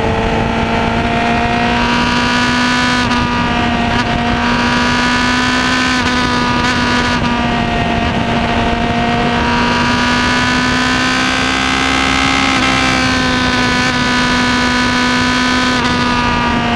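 Suzuki GSR750's inline-four engine running through a SHARK Factory aftermarket exhaust. It holds steady revs, with the pitch rising slightly and easing back down.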